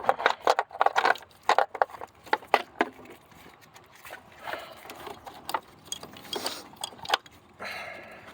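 Car engine wiring harness and its plastic connectors being handled and routed: a quick run of sharp clicks and rattles for the first few seconds, then softer rustling and scraping.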